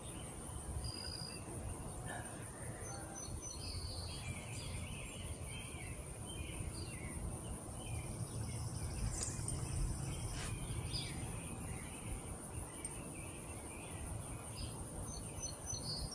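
Outdoor ambience: a steady high-pitched insect chorus with many small birds chirping throughout, over a constant low rumble.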